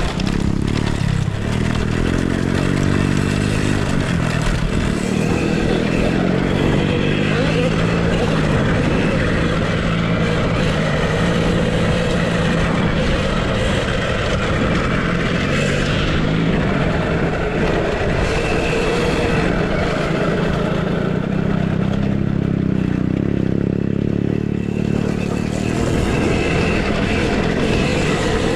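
Off-road motorcycles running on a dirt track, their pitch rising and falling again and again as they rev and ease off, over a steady rushing noise.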